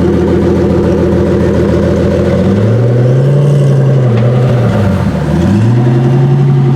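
Pagani hypercar's AMG V12 engine running loudly, its pitch rising about two and a half seconds in, dipping briefly near five seconds, then rising again and holding.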